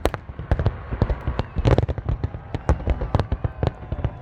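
Fireworks going off in quick succession: sharp, irregular bangs and pops, several a second, over a continuous low rumble, with a louder cluster about a second and a half in.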